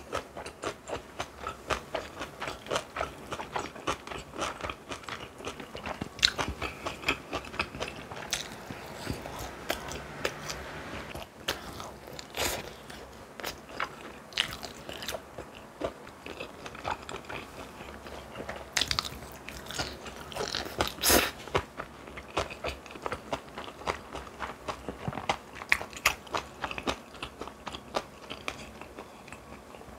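Chewing crunchy food: a quick, continuous run of crisp crunching bites, with a few louder sharp crunches scattered through.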